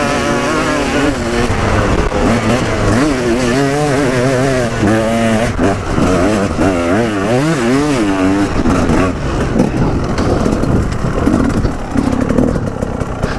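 A vehicle engine revving up and down over and over, its pitch rising and falling repeatedly for several seconds in the middle, with steady running before and after.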